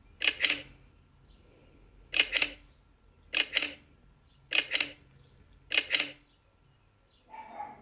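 Five sharp double clicks, each pair quick, spaced a little over a second apart.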